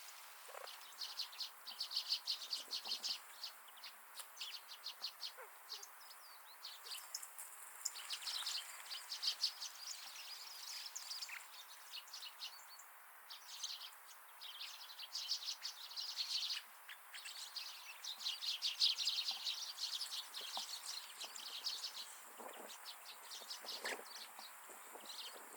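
Many small birds chirping and twittering at once, in dense, rapid runs of chatter a few seconds long, broken by short pauses.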